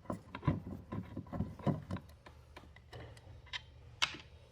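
Irregular light clicks and taps of small metal engine parts and hand tools being handled while screws are undone, with a sharper click about four seconds in.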